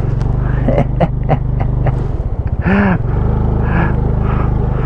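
Yamaha PG-1 motorbike's small single-cylinder engine running under load as it is ridden over rough ground, with a few sharp knocks and rattles about a second in. Its note dips briefly into a slow chug a little before the middle, then picks up again.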